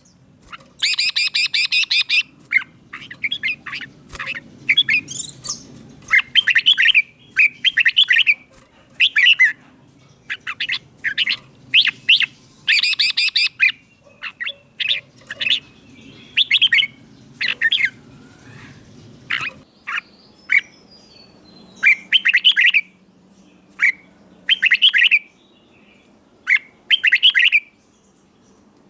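Red-whiskered bulbul singing: short, bright, quick phrases repeated every second or two with brief pauses between them.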